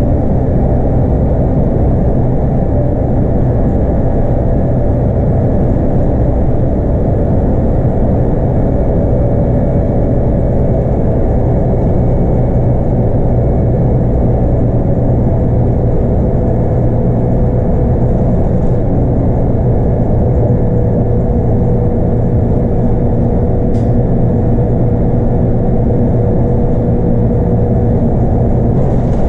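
Scania K230UB bus's 8.9-litre five-cylinder DC9 diesel running steadily under way, heard from on board with road and tyre noise. Its pitch drifts slightly lower in the second half.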